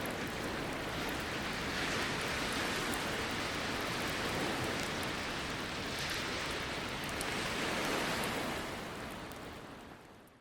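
Ocean waves washing on the shore in slow swells, with faint crackles from a campfire over the top. The sound fades out at the very end.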